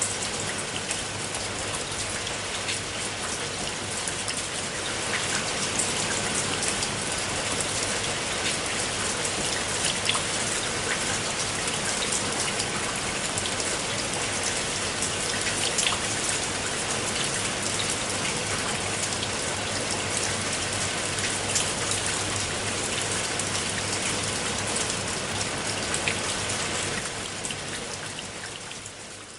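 Steady rain, with individual drops standing out as small sharp ticks against the dense wash. The rain fades down over the last couple of seconds.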